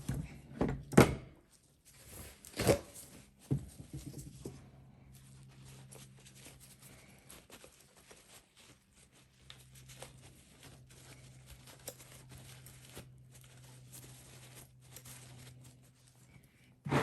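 Parts of a Toyota Denso starter being handled on a workbench: a few sharp knocks and clicks in the first four seconds, the loudest about a second in, then faint scattered ticks over a steady low hum.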